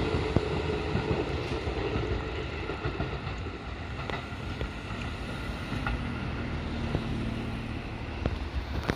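Kotoden electric train's running noise fading as it moves away from the level crossing, with wind rumble on the microphone.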